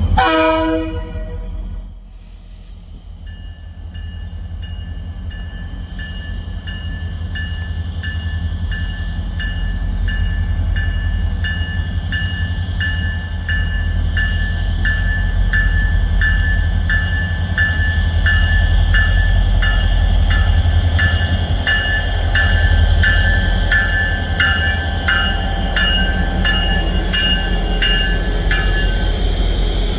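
A train rumbling past at close range. From a few seconds in until near the end, a railroad crossing bell rings steadily at about two strokes a second.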